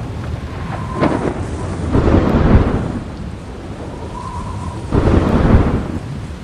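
Rain with rumbles of thunder that swell up and fade, about every three seconds.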